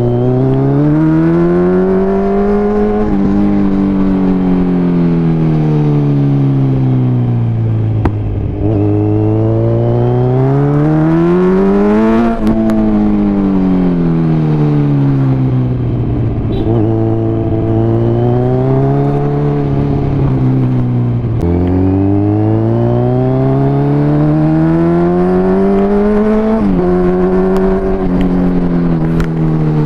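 Kawasaki Z900's 948 cc inline-four through an Akrapovic carbon full-system exhaust, ridden: the engine note climbs under acceleration and sinks back off throttle several times. The pitch drops abruptly now and then between pulls.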